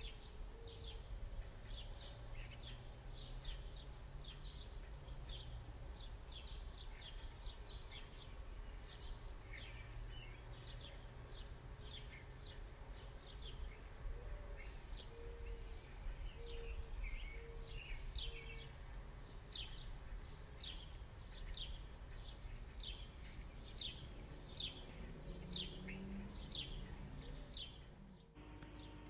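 A small bird chirping over and over, about two short, falling chirps a second, over a steady low background rumble. The sound cuts off abruptly shortly before the end.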